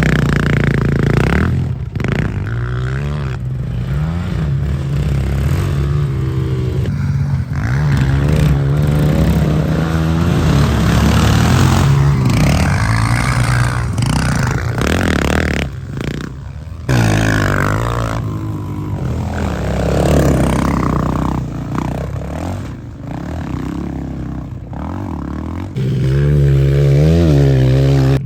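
A pit bike and a four-wheeler ATV revving and running hard as they race, pitch rising and falling with the throttle. The sound breaks off abruptly a few times.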